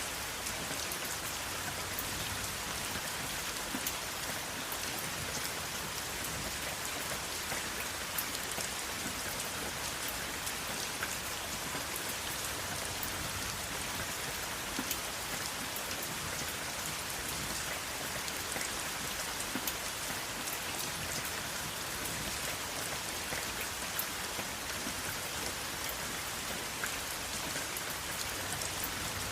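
Steady rain falling on a surface, a dense even hiss with many individual drops ticking through it, without thunder.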